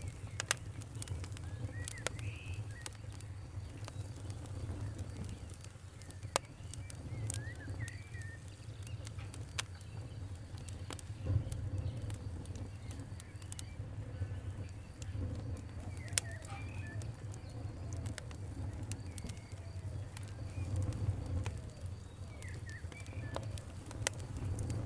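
Wood fire crackling, with scattered sharp pops over a low steady rumble. Birds call now and then in the background.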